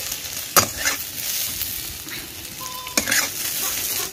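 Okra frying in hot oil in a steel kadai, sizzling steadily. A metal spatula knocks sharply twice as the fried pieces are scooped out of the pan.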